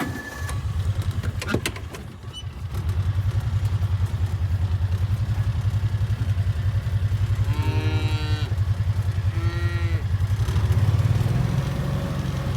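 A farm vehicle's engine running close by at a steady, pulsing rumble, growing louder about two seconds in. Two short cattle moos come near the eight- and nine-and-a-half-second marks.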